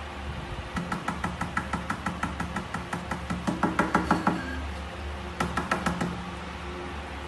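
Fingers tapping rapidly on a glass tabletop: two runs of light, sharp knocks about five a second, the first lasting a few seconds and getting louder near its end, the second short, about a second after it.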